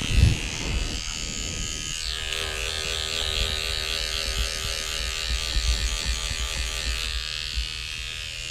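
Electric hair clippers running in a steady buzz. The tone of the hum shifts about two seconds in, and the clippers cut off near the end.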